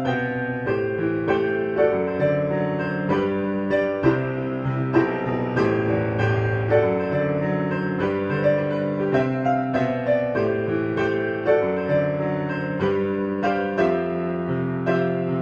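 Background piano music, with notes struck in a steady, gentle rhythm.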